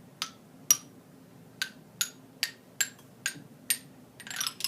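A wooden mallet strikes a homemade instrument of wind-chime tubes and wooden dowels, eight separate notes of different pitch about half a second apart, each ringing briefly. Near the end comes a quick jangling run of several chimes.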